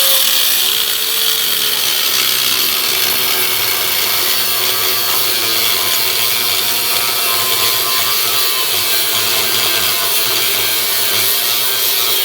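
A power tool's cutoff wheel cutting into a rusted truck frame, running steadily. Its motor pitch drops a little as it bites in, about half a second in.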